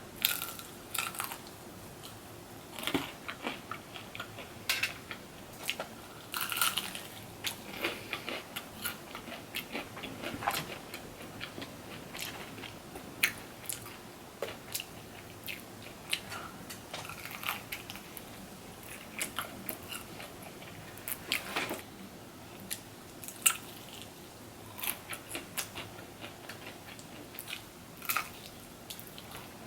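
A person eating close to the microphone: irregular crunching bites and chewing with small mouth clicks.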